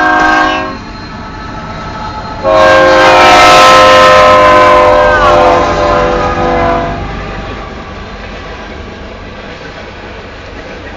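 Union Pacific freight locomotive's air horn sounding a short blast, then a long chord about two and a half seconds in whose pitch falls near its end as the locomotive goes by. After that comes the steady rolling clatter of the loaded grain hopper cars passing.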